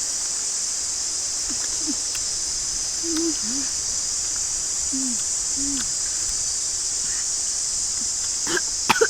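Steady, high-pitched insect chorus, with a few short low calls scattered through and some sharp clicks near the end.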